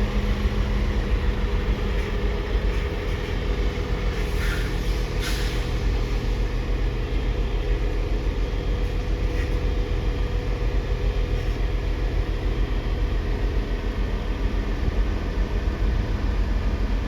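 Heavy diesel engines running with a steady low rumble, with a few short hisses about four to five seconds in.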